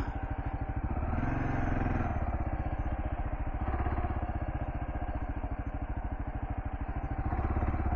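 Kawasaki KLR650's single-cylinder engine running at low revs with a steady, even pulse, rising a few times as the throttle is opened a little.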